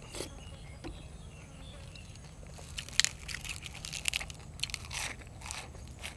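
Chewing and crunching crunchy food close to the microphone: a run of crisp crunches starts about two and a half seconds in, is loudest about three seconds in, and dies away before the end. A steady low hum sits underneath.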